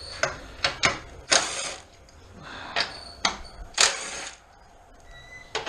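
Metal hand tools clicking and clattering in several short bursts with pauses between, typical of working on a car's radiator mountings.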